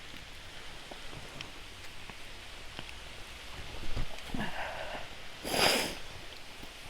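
Scuffing footsteps and rustling on a wet, muddy trail over a steady hiss of falling water, with a knock about four seconds in and a loud brushing rustle a little later.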